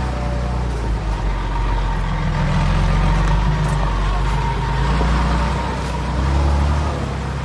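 Heavy earthmoving-machine diesel engine working under load, its low engine sound swelling and easing every second or two, with a steady high whine running alongside.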